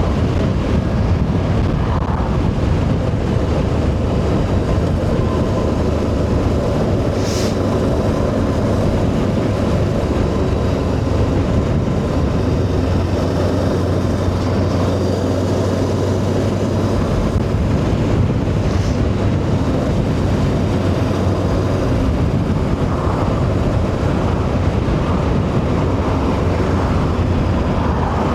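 Motorcycle engine running steadily while riding, with heavy wind rush on the microphone; two brief ticks break through about a third and two-thirds of the way in.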